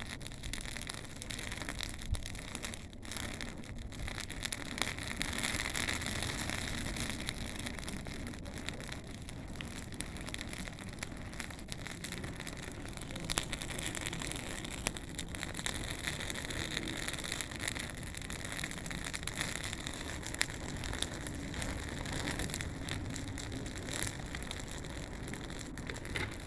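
Bonfire burning: a steady crackling hiss with frequent sharp pops and snaps.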